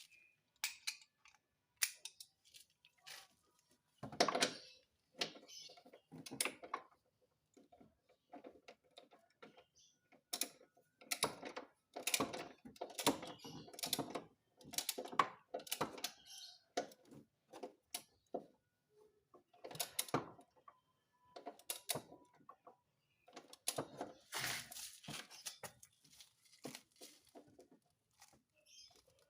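Irregular knocks, clicks and rattles of hand tools working on a car's engine mount, coming in scattered strokes and short clusters.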